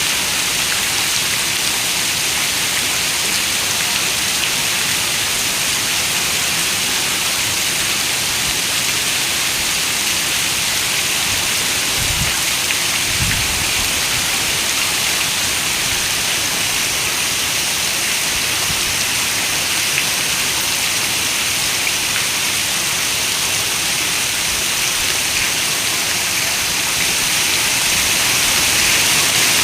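Heavy rain pattering on a window glass, a steady dense hiss of drops. About twelve seconds in comes a brief low rumble of thunder.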